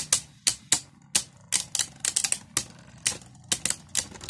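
Beyblade Burst spinning tops clashing against each other and the stadium wall. There are irregular sharp plastic-and-metal clacks, several a second.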